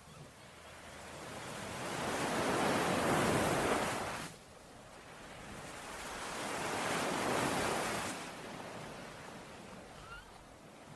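Sea waves washing onto a shore: two surges of surf, the first building for a few seconds and breaking off suddenly about four seconds in, the second rising and fading away more gently, then a softer steady wash.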